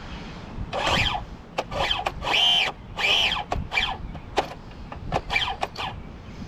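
Small .12 nitro RC car engine being spun over by a starter in about eight short bursts, each rising and then falling in pitch, with pauses between them. The engine has not yet caught.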